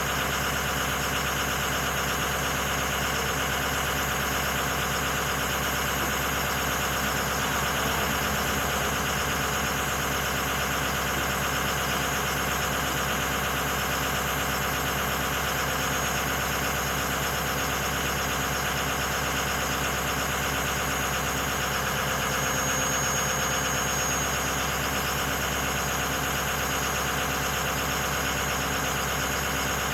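Stock 2006 Ford F250's 6.0 Powerstroke V8 turbo-diesel idling steadily while warming up after a cold start, with an even diesel clatter.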